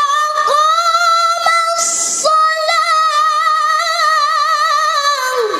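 Unaccompanied Quranic recitation (tilawah) by a female voice: one long, high melismatic note held with a wavering vibrato, briefly broken about two seconds in, then falling away near the end.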